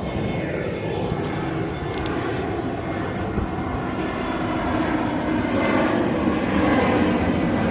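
Jet airliner flying over, its engine noise growing steadily louder.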